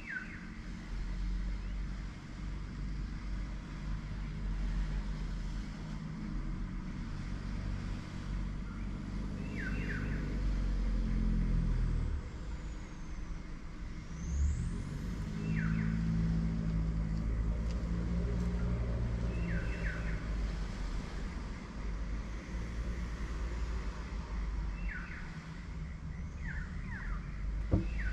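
Steady low engine drone, with short high chirps every few seconds.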